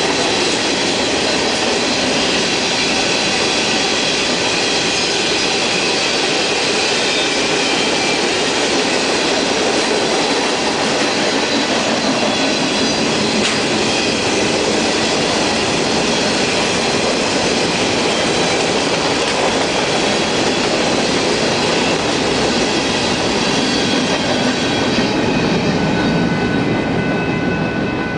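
Freight train of tank cars and covered hoppers rolling past at close range: a steady clatter and rumble of steel wheels on rail, with thin, steady, high squealing tones from the wheels. The last cars pass near the end and the noise starts to fall away.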